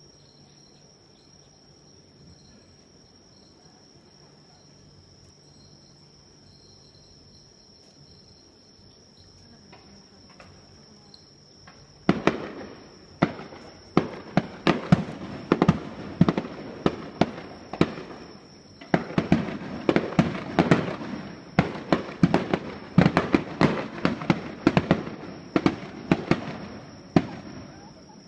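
Fireworks display: a quiet spell with only a faint steady high tone, then about twelve seconds in, a rapid barrage of firework shells bursting, several sharp bangs a second, with no pause to the end.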